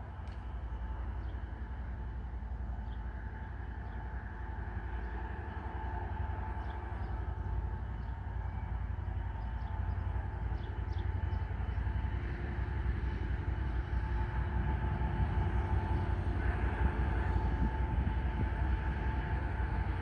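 Freight train rumbling along the track, its low rumble slowly growing louder as it draws near.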